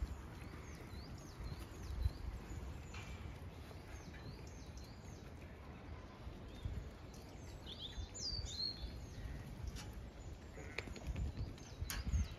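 Songbirds singing: short chirps repeated again and again, with a louder call about eight seconds in, over a low wind rumble on the microphone and a few short knocks.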